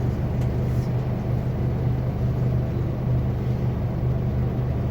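Cabin sound of a Scania K280UB4 city bus: its five-cylinder diesel engine runs with a steady low drone at an even pitch, mixed with road noise.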